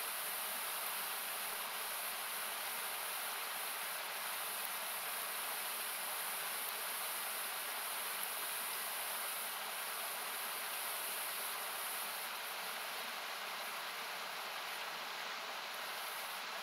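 Rushing river water, heard as a steady, even hiss that is brightest in the highest frequencies. It has been thinned by an equalizer and still sounds like noise.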